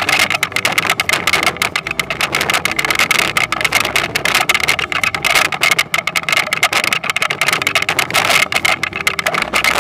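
Toyonoki potato harvesting machine running: steady engine noise under a dense, fast, continuous rattle and clatter.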